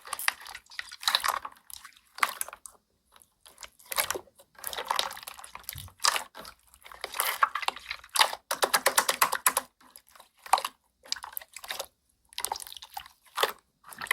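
Slime being played with by hand: wet, clicky squishing and crackling in irregular bursts with short pauses between.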